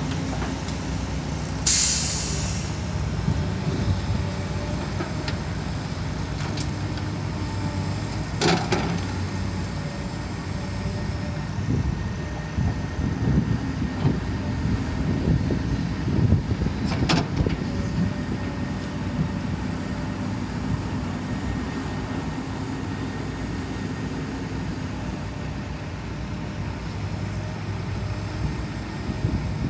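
Heavy diesel engines of an excavator and dump truck running steadily, with a short hiss about two seconds in and two sharp knocks, about eight and seventeen seconds in; the engine sound grows rougher and louder in the middle stretch.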